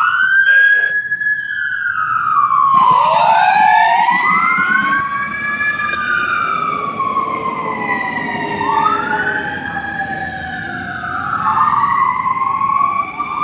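Fire engine siren wailing, its pitch rising and falling slowly, with two siren tones sweeping up and down out of step and crossing each other.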